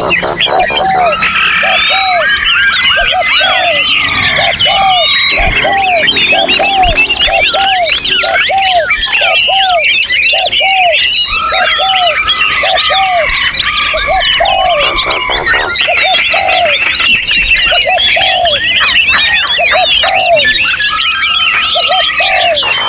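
A dense chorus of many songbirds singing at once, overlapping whistles, trills and chirps. Under them a low, cooing note repeats about one and a half times a second throughout.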